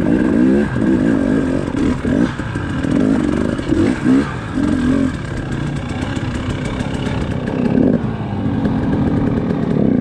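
Off-road dirt bike engines revving up and down hard, then running steadier, as the bikes climb a rocky stair section on the trail.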